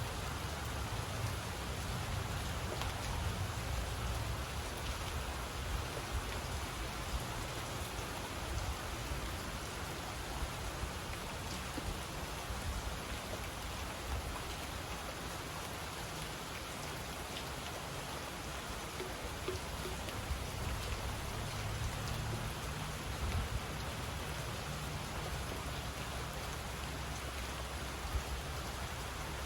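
Steady rain falling: an even hiss with scattered drops, over a low rumble that swells and eases.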